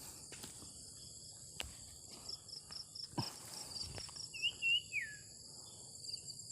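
Steady, rapidly pulsing insect chirping, typical of crickets at dusk. About four and a half seconds in, a bird gives one short warbled call that slurs downward at the end, with a couple of faint knocks earlier on.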